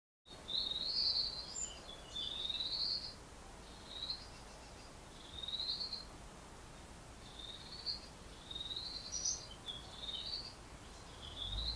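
Bird song: a run of about eight short, rising chirped phrases, each under a second, with brief pauses between them, over a faint steady hiss.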